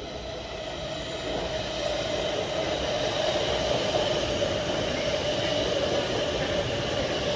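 A train running through the station, its noise growing louder over the first couple of seconds and then holding steady, with a steady tone over the rumble.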